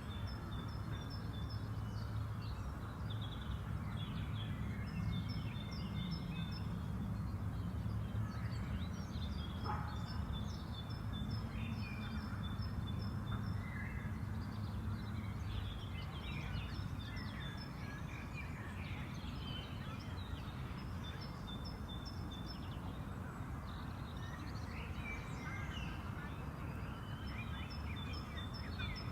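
Songbirds singing in a spring park, several birds repeating short high trilled phrases throughout, over a steady low background rumble.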